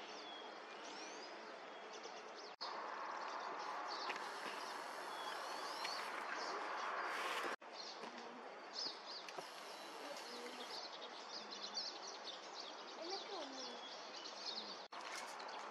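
Several small birds chirping and twittering in quick, short notes, over a steady background hiss.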